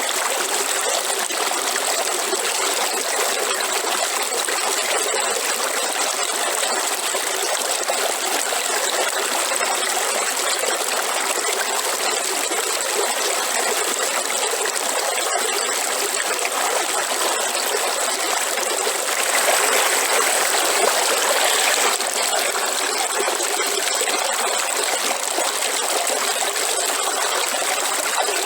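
Waterfall: water falling and rushing in a steady, even roar, which swells briefly about two-thirds of the way through.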